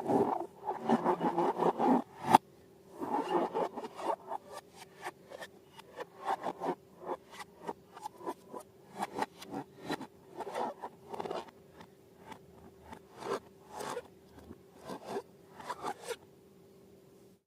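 Close-up slime handling: sticky scraping and crackling, busy at first. A sharp snap comes about two seconds in, and sparser short crackles follow.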